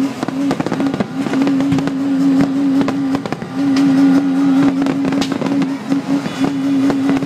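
Fireworks going off in a rapid run of bangs and crackles. Over them a low horn-like tone is held in long blasts with short breaks.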